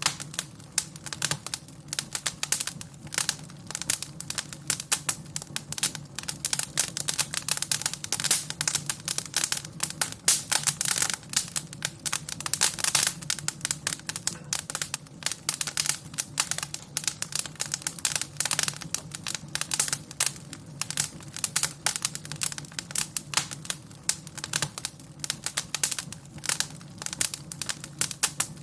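Wood fire in a fireplace crackling and popping, a dense run of irregular sharp snaps over a steady low rumble.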